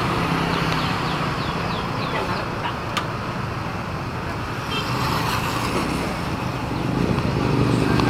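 Road traffic: motor vehicle engines running steadily, with a run of short high chirps about two seconds in and a single sharp click about three seconds in.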